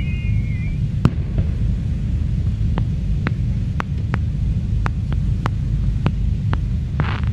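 Fireworks display with a steady low rumble and single sharp pops every half second or so. A whistling shell fades out just after the start, and a dense crackle of bursting stars starts near the end.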